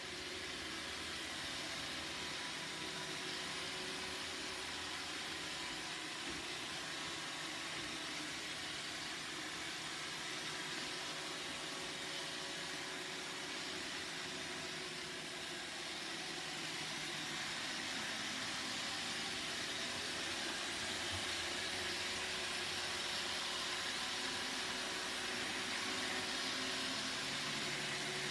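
Roomba robot vacuum running, a steady whirring hiss that grows slightly louder over the second half.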